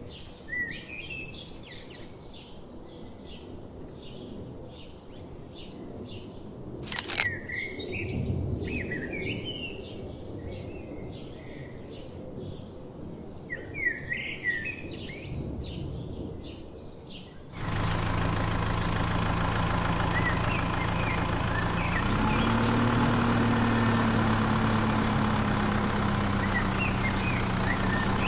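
Small birds chirping and twittering, with one sharp click about seven seconds in. About two-thirds of the way through, a steady motor hum cuts in abruptly and its pitch steps up slightly a few seconds later, with faint chirps still heard over it.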